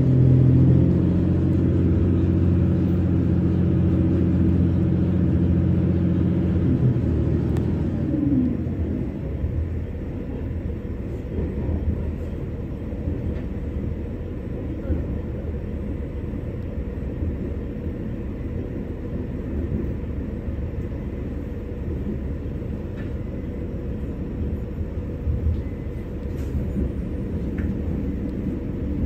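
Train interior: a steady low hum from the train's drive runs for about the first seven seconds and then cuts out. After that only the rumble of wheels on track remains, with a few faint clicks, as the train coasts and slows into the station.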